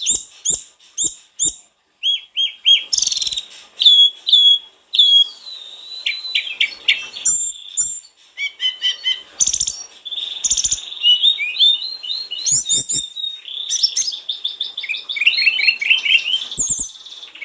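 A sulingan gunung songbird singing energetically, with a varied, continuous song of fast chirps, rapid trills and short whistled phrases, interspersed with a few soft clicks.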